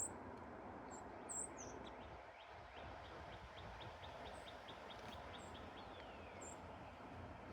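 Songbirds calling faintly over a steady background rush: scattered short high chirps, and a quick run of repeated notes, about three or four a second, through the middle, ending in a falling whistle.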